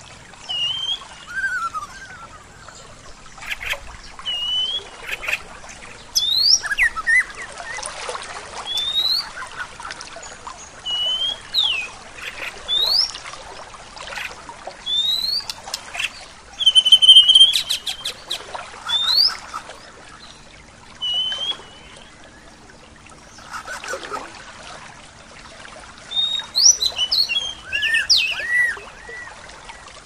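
Songbirds calling, mostly short rising whistled notes repeated every second or two, with a loud cluster of rapid chirps about halfway through and a run of mixed notes near the end. Under them runs a faint, steady rush of flowing water.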